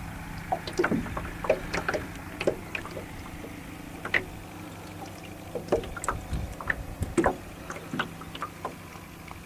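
Water around a rowing boat: irregular small splashes and knocks against the boat, over a faint steady low hum.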